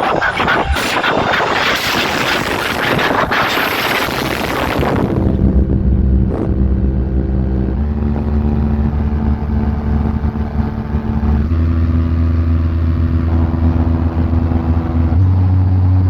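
Large DJ loudspeaker boxes playing at high volume. About five seconds of dense, noisy music, then long deep bass notes that step to a new pitch every three seconds or so, like a bass sound-check track.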